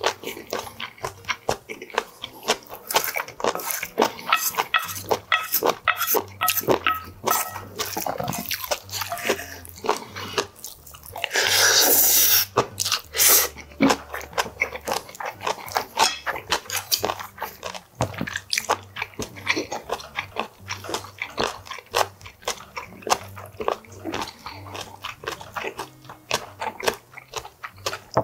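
Close-miked chewing of a mouthful of sea cucumber bibimbap: wet, sticky mouth sounds and many quick crunchy clicks. One longer, louder rush of sound comes about twelve seconds in.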